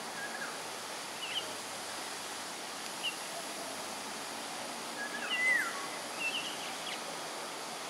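Small birds giving short, scattered chirps and whistles, most of them around five to seven seconds in, over a steady background hiss.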